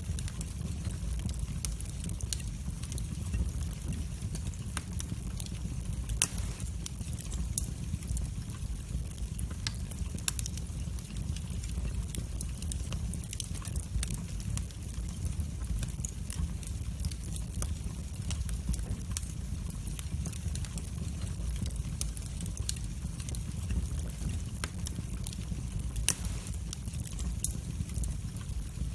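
Wood fire burning in a fireplace: a steady low rumble of the flames with frequent sharp crackles and pops, two louder pops about six seconds in and near the end.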